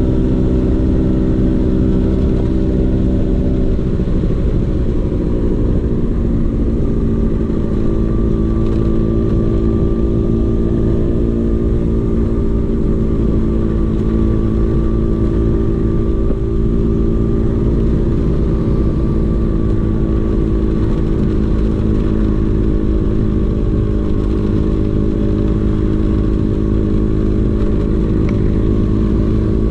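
Vespa PX 150 two-stroke single-cylinder engine with a DRC Victory racing exhaust, running under way at steady revs. The engine note dips about four seconds in, then holds steady.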